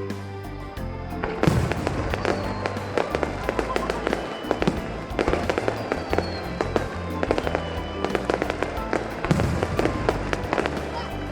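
Fireworks bursting in quick succession, with crackling reports, over show music; the bursts begin about a second and a half in and continue thickly.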